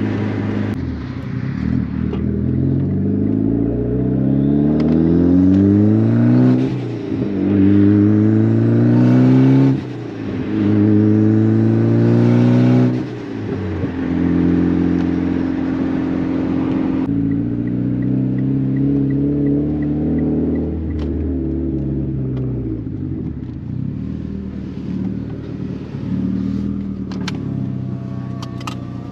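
Mitsubishi Lancer Evolution X's turbocharged 2.0-litre four-cylinder on a full titanium exhaust, heard from inside the cabin, accelerating hard through the gears: the engine note climbs and drops at each upshift, three times in quick succession. It then settles and falls away as the car eases off, with a short run of faint even ticks partway through.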